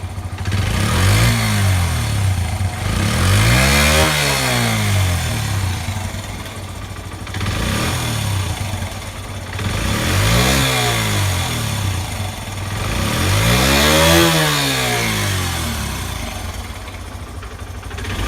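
Honda Ape 50 (AC16) single-cylinder four-stroke engine idling and being revved four times. The pitch rises and falls back each time, with the second and fourth revs the highest.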